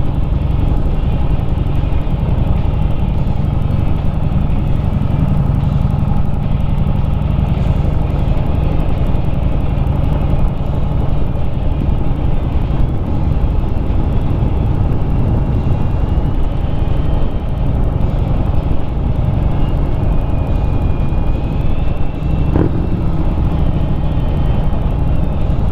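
Harley-Davidson Street Rod 750 coasting downhill in neutral: a steady low rumble of wind and road noise, with a short knock about 22 seconds in.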